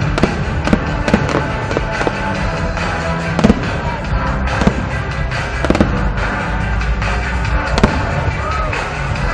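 Aerial fireworks bursting in quick succession, sharp bangs several a second with some crackle, over loud music with held tones.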